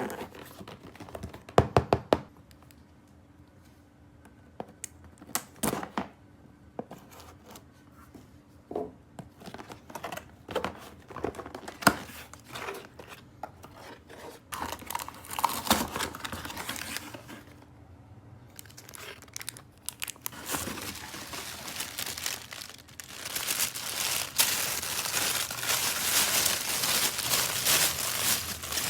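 Toy packaging being handled. Scattered clicks and taps give way, about twenty seconds in, to continuous crinkling and tearing that is loudest in the last several seconds.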